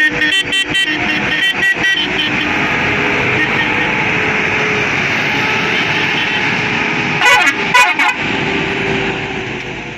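Vehicle horn sounding in a rapid series of short toots, over a loud steady hiss. A second quick burst of toots comes about seven seconds in.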